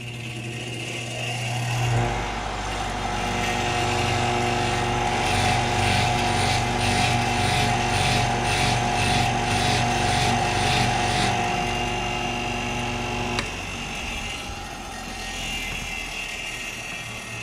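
Electric drill running steadily, spinning an engine valve chucked in it while a Scotch-Brite pad polishes the valve; it stops with a click about two-thirds of the way through.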